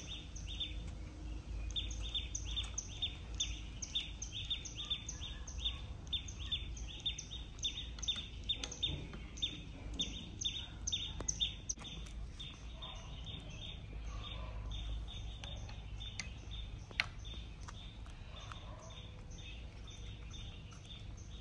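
A bird calling over and over, a short falling chirp about three times a second, fading out near the end, over a steady low background rumble.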